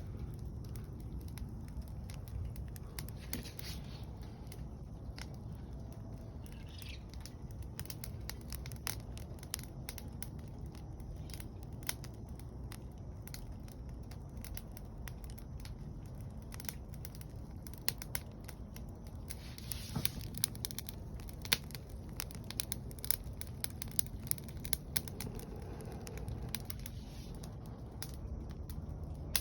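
Wood fire (takibi) crackling, with many irregular sharp pops and snaps that come thicker in the second half, over a steady low rumble.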